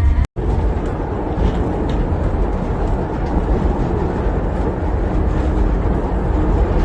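Steady rumbling noise of a moving vehicle, heaviest in the low end, starting after an abrupt cut a moment in.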